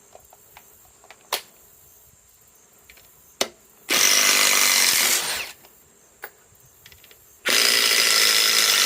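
Ryobi 4-mode impact driver hammering a large structural ledger-lock screw in two bursts of about a second and a half each, running on a 6 Ah battery. A couple of sharp clicks come before the first burst.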